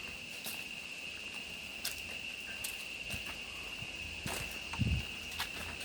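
A steady, high, unbroken insect drone from the forest, with scattered light ticks of footsteps and a brief low thump about five seconds in.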